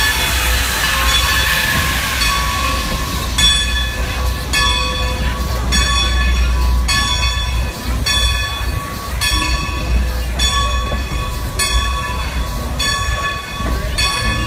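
Steady rumble of a heritage excursion train rolling past a standing steam locomotive and its wooden coaches, heard from an open-sided coach, with a hiss in the first few seconds. From a few seconds in, a steam locomotive's bell rings steadily, about three strikes every two seconds.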